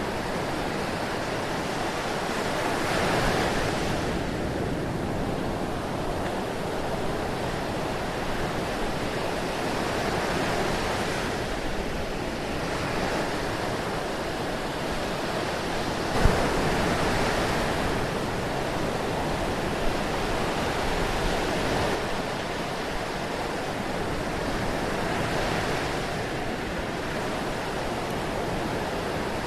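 Ocean surf: a steady wash of waves with swells every few seconds, and one sharper splash about sixteen seconds in.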